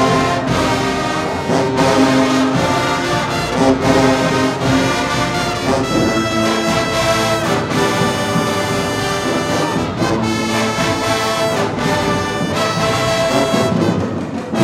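High school marching band playing loudly, brass section sounding held chords over regular drum hits.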